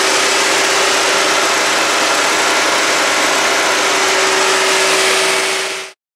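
The 1.5-litre turbocharged four-cylinder engine of a 2017 Ford Escape, idling steadily with a constant whine under the engine noise. The sound cuts off suddenly near the end.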